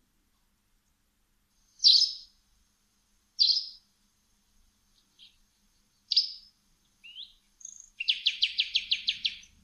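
A small bird chirping: three sharp, separate high chirps a second or more apart, a few short fainter notes, then a fast trill of about ten notes near the end.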